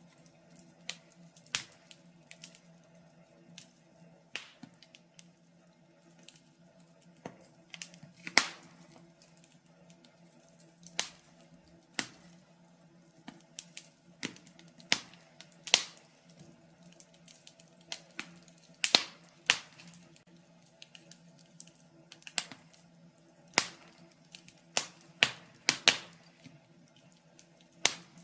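Wood fire burning in a fireplace, crackling with irregular sharp pops and snaps, a few of them loud, over a faint steady hum.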